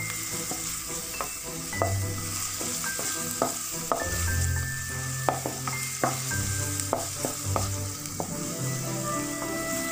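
Chopped onions sizzling in a little oil in a nonstick frying pan while a spatula stirs them, with frequent sharp knocks and scrapes of the spatula against the pan.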